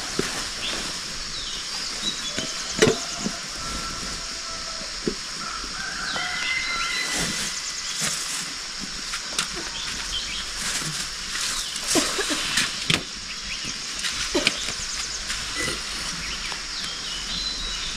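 Steady hiss of rain with scattered knocks, clicks and rustles from camping gear being packed up, and a few short chirps.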